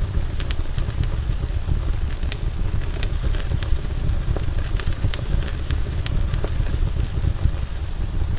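Campfire burning: a steady low rush of flame with irregular sharp crackles and pops from the burning wood, a few each second.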